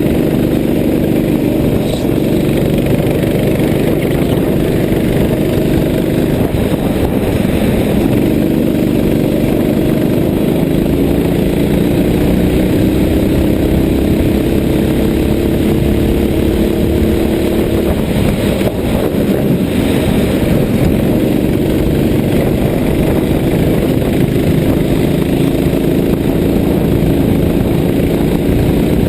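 A vehicle engine running steadily under way, its note rising slowly for several seconds around the middle, over continuous road and rain noise.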